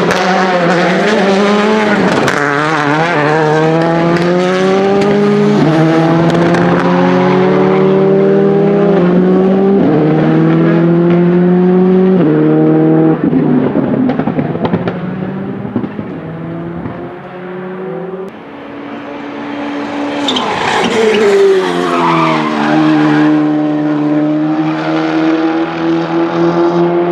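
Rally car engines on full throttle. One car accelerates through the gears, its note climbing and dropping sharply at each of several upshifts, then fades away. Another car comes past loudly about two-thirds of the way through and holds a steady high engine note.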